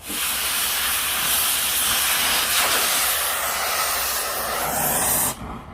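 Oxygen cutting torch blowing its jet through a steel H-beam: a loud, steady hiss that starts suddenly and cuts off about five seconds in.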